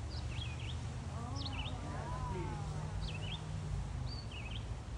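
A songbird singing short, high, zigzagging phrases, repeated about once a second among trees, with faint distant voices in the background.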